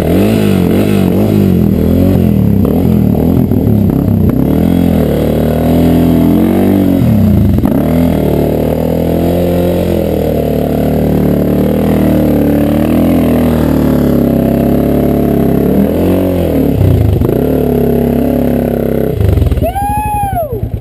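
Suzuki DR650's single-cylinder engine running loud, the throttle opened and closed again and again so the revs rise and fall, with a sharp drop in revs near the end.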